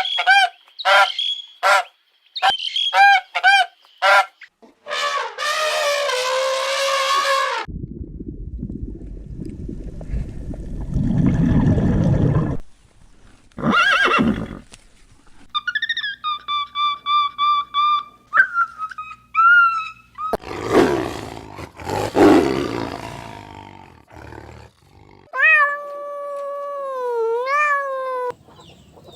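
A string of different animal calls, one after another: quick repeated cries at the start, then longer calls, two low roaring stretches in the middle, and gliding pitched calls near the end.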